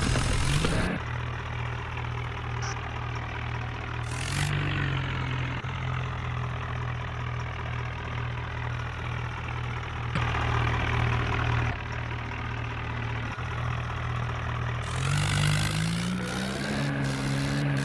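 Tractor engine running steadily at low revs, revving up briefly about four seconds in, then climbing to higher revs near the end and holding there.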